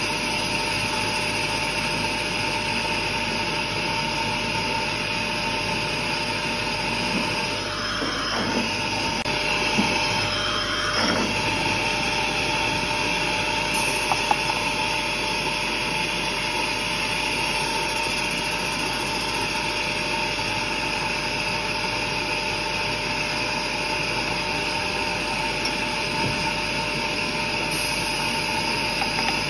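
Laser glass drilling machine running with a steady mechanical whir, a hissy hum with a few constant tones in it. A brief sweeping change in the sound comes about eight to eleven seconds in.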